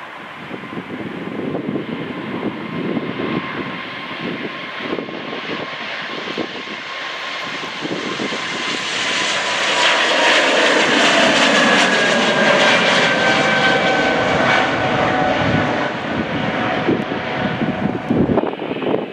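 Jet airliner's engines passing close by, the noise building to a peak about halfway through, with a whining tone that falls in pitch as it goes past, then easing off.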